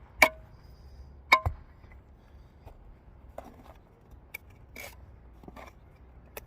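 A mason's tool knocking on brick while a brick is tapped and trimmed into place in a course: several sharp, ringing taps at uneven intervals, with softer scrapes between them.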